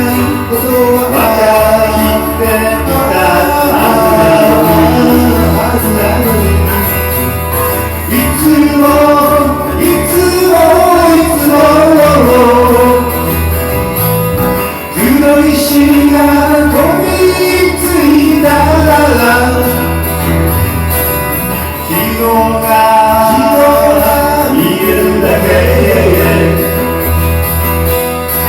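Live band playing a song, with a voice singing over the instruments.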